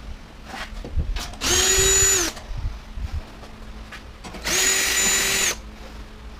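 Power drill running in two short bursts of about a second each, its motor whine rising to a steady pitch and winding down, while backing out screws from an appliance's metal casing. Light knocks come between the bursts.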